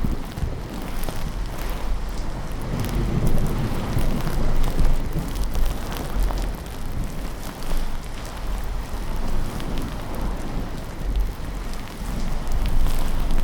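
Steady rain sounds with a low rumble of thunder swelling a few seconds in.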